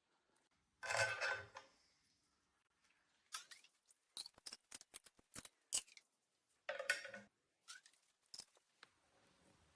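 Small hard objects being handled: a run of sharp metallic clicks and taps, with a short scraping rustle about a second in and another around seven seconds.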